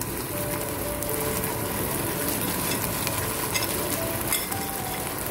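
Chicken pieces sizzling steadily in a sticky soy-and-chili sauce in a pot on the hob, with a couple of light clicks near the end.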